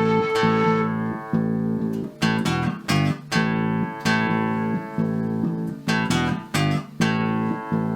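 Instrumental folk music: an acoustic guitar plucked and strummed in a steady rhythm, with a fiddle's held note ending about a second in.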